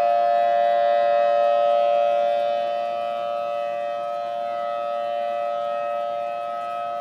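Civil defense outdoor warning siren sounding a tsunami warning: one steady tone, held without rising or falling, its level easing a little about halfway through.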